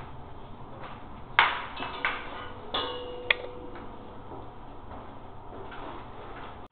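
Hard objects knocking and being set down: four sharp clinks and clatters in the first half, some ringing briefly.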